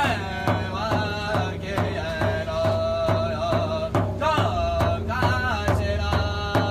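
Drumming and singing: a steady drum beat, about two strokes a second, under voices singing with gliding notes and one long held note in the middle.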